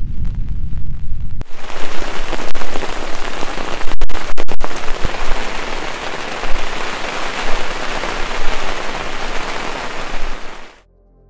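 Heavy downpour on the lake surface and the boat, a dense steady hiss of rain after a brief low rumble at the start; it cuts off abruptly near the end.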